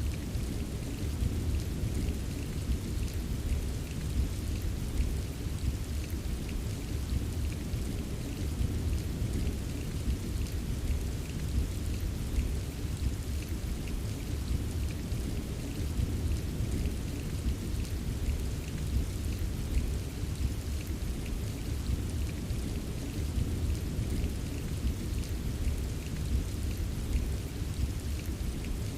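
Steady rain with soft, scattered drop taps, over a continuous low rumble of gentle thunder rolling.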